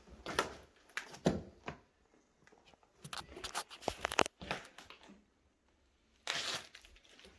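Irregular crunching, rustling and knocking in a small room, with a quick run of sharp knocks and clicks in the middle and a brief rushing noise near the end.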